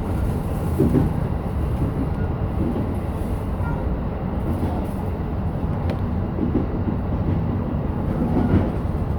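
E233 series 7000 electric train running on the rails, heard from inside the car: a steady low rumble of wheels and motors.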